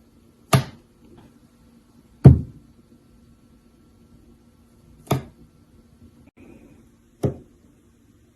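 Four sharp knocks a second or two apart, the second one the loudest, over a faint steady hum.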